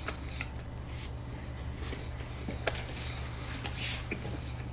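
Faint chewing and mouth clicks of people eating waffles, scattered soft ticks over a steady low hum.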